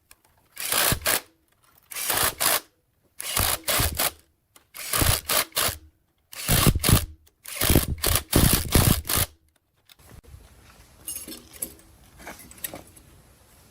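Repeated short scraping strokes, about one every second and a half, stopping about ten seconds in and giving way to a few faint clicks.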